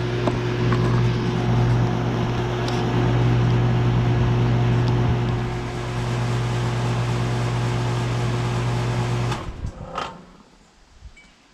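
Outdoor condensing unit of a 2012 Bryant Legacy Line central air conditioner running, a steady compressor hum under condenser fan noise, then shutting down about nine seconds in: the hum cuts off suddenly and the fan sound dies away within about a second, with a click as it stops.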